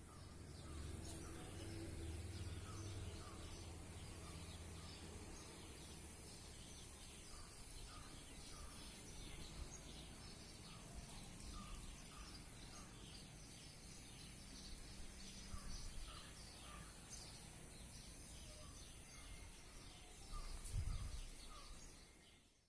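Faint outdoor ambience with birds chirping repeatedly over a low background rumble, and a brief low thump near the end.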